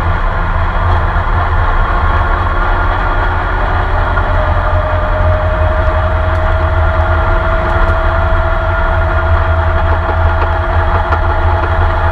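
Porsche 911 RSR flat-six engine heard from inside the car, running at a steady, unbroken pitch with no gear changes. A thin whine comes in about four seconds in and rises slightly.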